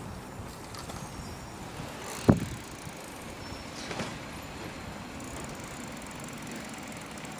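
Garbage truck working on a yard-waste collection, a steady low mechanical background broken by one sharp, loud bang about two seconds in and a smaller knock about four seconds in.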